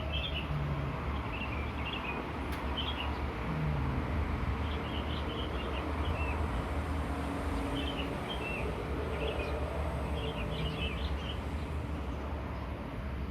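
Outdoor ambience: small birds chirping in short repeated phrases over a steady low rumble.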